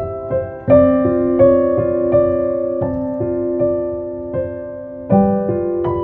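Background solo piano music: a slow, gentle melody of ringing notes over held chords.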